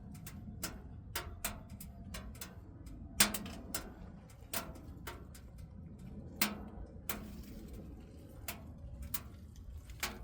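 Firewood burning inside a camping wood stove, crackling with irregular sharp pops, the loudest about three seconds in, over a low steady rumble.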